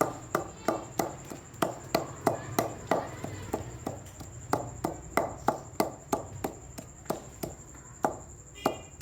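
Garlic being pounded with a pestle in a mortar: a steady run of sharp knocks, about three a second.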